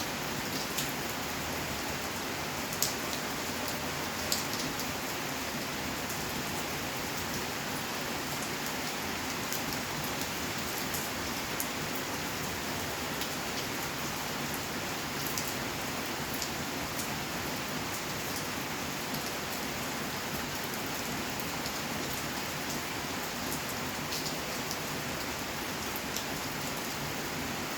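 Steady rain falling, with scattered sharp drip ticks of individual drops striking close by, some louder, about three seconds in and four seconds in.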